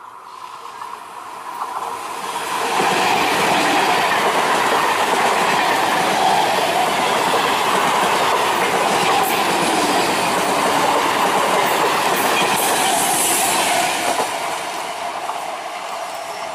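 Electric multiple unit (EMU) local train passing close by at speed, its wheels clattering on the rails. The noise builds over the first three seconds, stays loud and steady for about eleven seconds as the coaches go by, then fades near the end.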